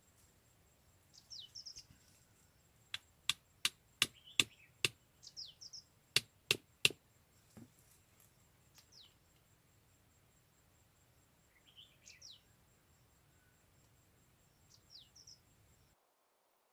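A run of about ten sharp knocks in the space of four seconds, with a bird giving short, high chirps that fall in pitch, repeated every few seconds. The sound cuts off abruptly near the end.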